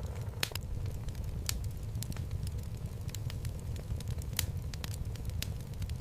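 Wood fire burning in a home fireplace: a steady low rumble of flames with irregular sharp crackles and pops of the burning logs, a few louder pops standing out.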